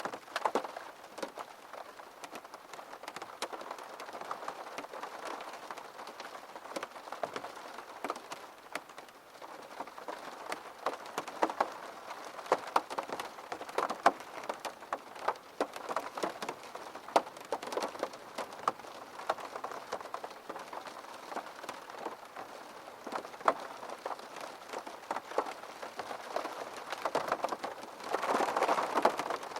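Steady rain falling on a hard surface, with many separate drops landing as sharp ticks over the hiss. The rain swells louder for a second or two near the end.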